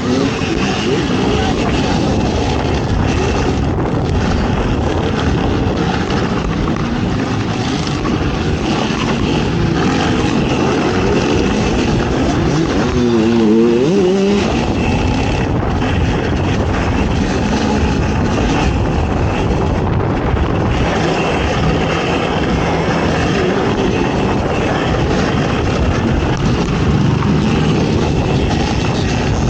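Off-road ATV engine running hard during a cross-country race, a dense steady motor noise throughout, its pitch wavering up and down briefly about halfway through.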